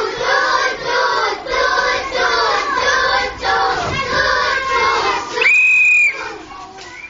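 A class of children chanting together in a steady rhythm, like a train chant as their 'train' sets off. A whistle is blown once, briefly, near the end.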